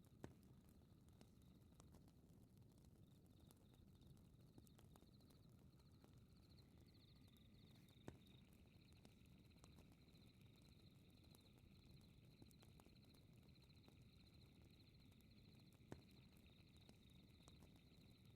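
Faint fireplace ambience: a low rumble of burning with scattered small crackles and three sharper pops, under a steady high chirping of night insects that grows fuller about a third of the way in.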